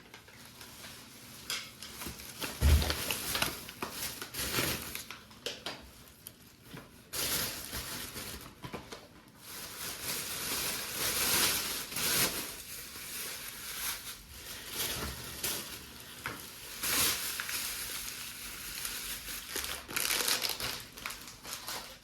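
Kitchen handling sounds: rustling and crinkling in irregular bursts, with a dull knock about three seconds in.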